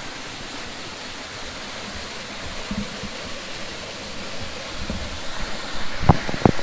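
Small waterfall cascades rushing steadily, a constant hiss of falling water. A few sharp knocks near the end.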